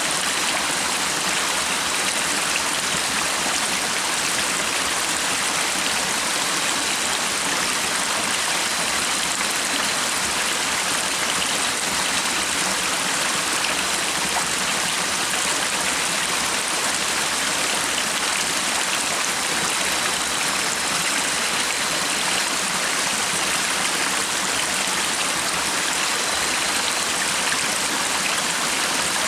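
Stream water rushing and splashing in a steady, unbroken wash.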